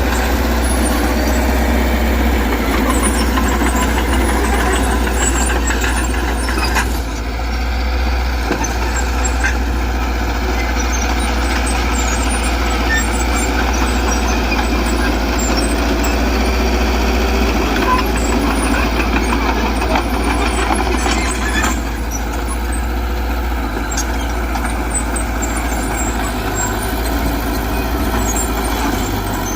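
Heavy diesel earthmoving machinery running steadily under work, with a brief dip in loudness about seven seconds in.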